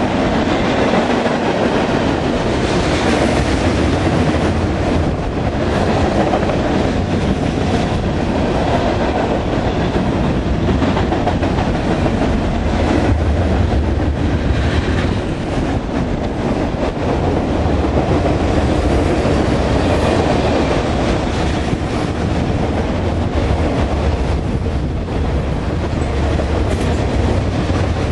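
Freight train's tank cars and boxcars rolling past at close range: a loud, steady rumble of steel wheels on the rails with irregular clacks over the rail joints.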